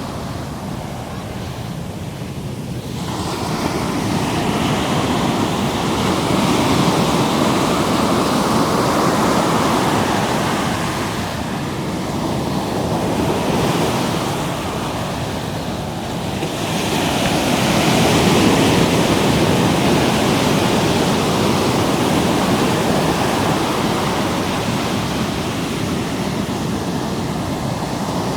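Ocean surf washing in and out at the water's edge, the rush of water swelling and easing in slow waves, with some wind buffeting the microphone.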